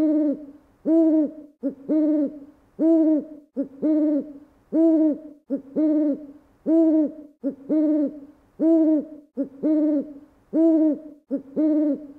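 Owl-like hooting repeated very evenly about once a second, each repeat a short note followed by a longer, louder note that rises and falls in pitch.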